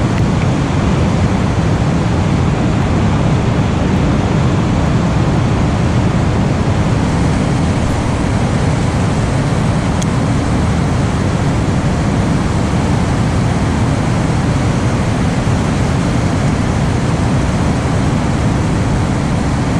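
Water rushing steadily over an overflowing dam: a loud, unbroken, deep rushing noise that does not change.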